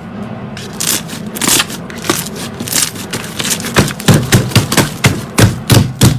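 Slime being squeezed and poked, trapped air popping out in sharp pops and crackles that grow louder and come about two to three a second in the second half, over a low steady hum.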